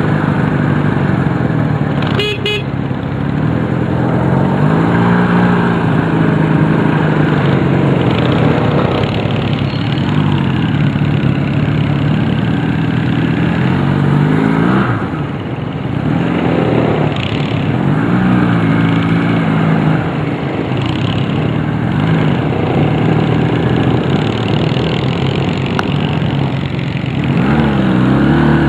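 Honda CD175's parallel-twin engine running as the motorcycle is ridden, its pitch rising and falling every few seconds as the rider opens and closes the throttle, over a steady rush of noise. A short high tone sounds about two seconds in.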